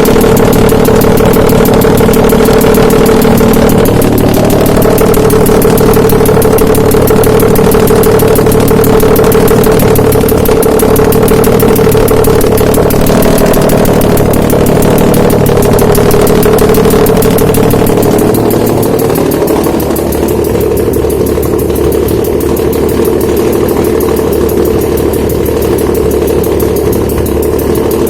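Nissan VQ35DE 3.5-litre V6 engine running on a test stand, steady at first, then its speed falls and settles lower about two-thirds of the way in.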